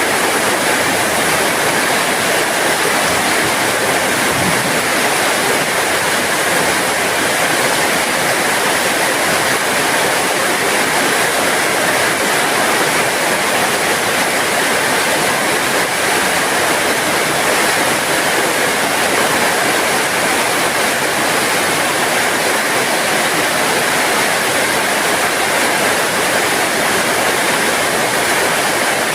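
Heavy rain falling steadily, a dense even hiss with no breaks or changes.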